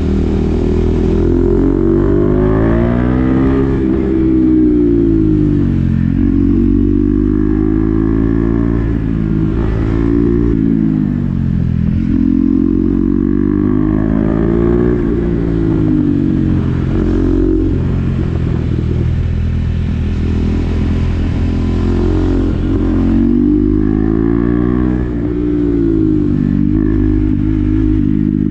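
KTM Duke 390 single-cylinder engine through an SC-Project exhaust with the db-killer fitted, under way on the road. Its note rises and falls repeatedly as the bike accelerates, changes gear and slows.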